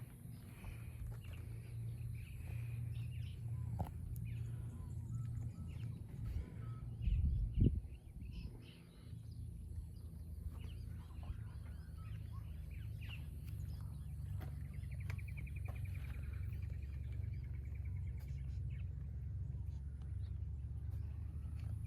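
Birds chirping and trilling over a steady low hum, with one heavy thud about seven and a half seconds in.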